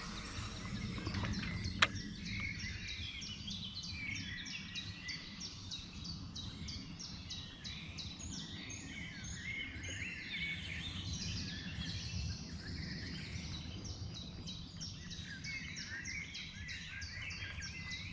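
Birds chirping and singing, with a rapid run of repeated high notes through much of the time, over a steady low rumble. A single sharp click about two seconds in.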